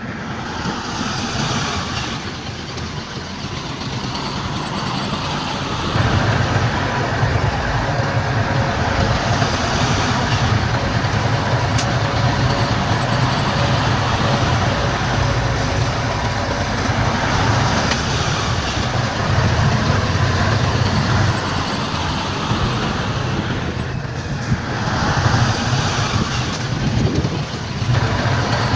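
Heavy diesel earth-moving machinery running steadily with a loud engine rumble, growing louder about six seconds in.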